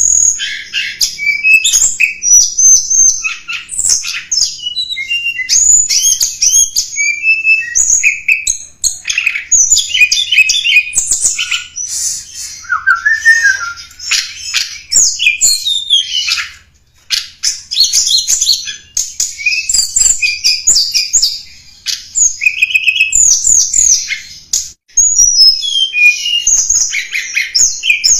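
Tledekan gunung singing a fast, varied song of high chirps, trills and quick warbled phrases, nearly without pause, with two short breaks about two-thirds of the way through and near the end.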